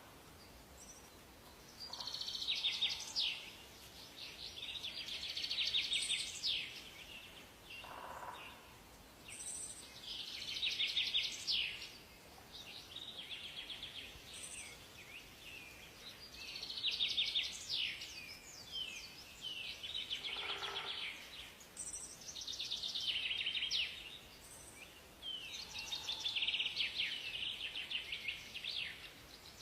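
Songbirds singing in a forest: fast trilled phrases, each a few seconds long, come again every few seconds, with short high chirps between them, over a faint steady hiss.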